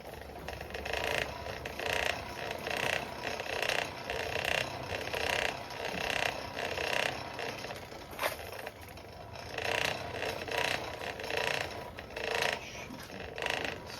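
Geared hand-cranked forge blower whirring in a steady rhythm, cranked a little over once a second to blow air into the coal fire as the steel heats.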